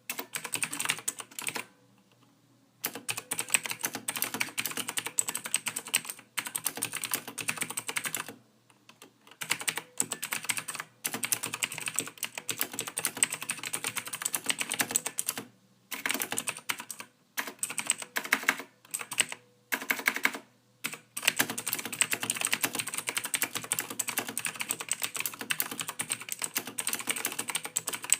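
Typing on a computer keyboard: fast, dense runs of keystroke clicks, broken by short pauses about two, nine and sixteen seconds in and by several brief gaps around eighteen to twenty-one seconds.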